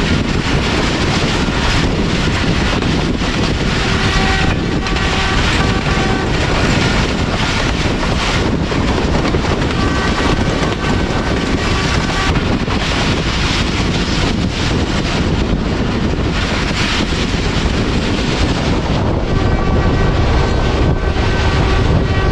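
Passenger train running at speed: a steady rumble of wheels on the rails, with wind buffeting the microphone.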